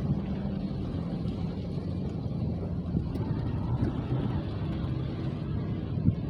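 Steady low rumble of rain and wind, with wind buffeting the microphone and a faint steady hum underneath; a few soft knocks, the loudest one about six seconds in.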